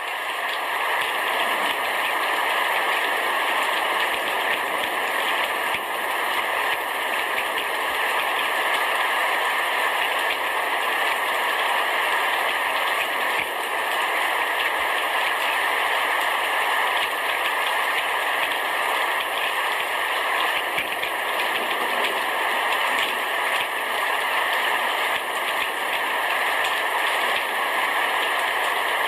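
Heavy rain falling steadily on a roof, a dense, even patter with no breaks.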